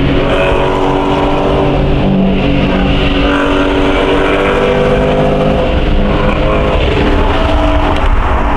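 Car engine running loudly at steady high revs over a low exhaust rumble, its pitch held nearly level throughout.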